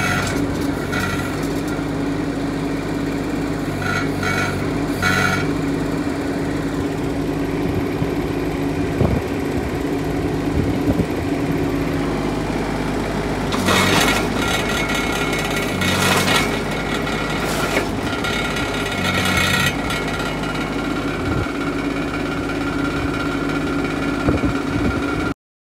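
Kubota D722 three-cylinder diesel of a YFE18 mini excavator running steadily, with several brief louder surges of noise. The sound cuts off suddenly near the end.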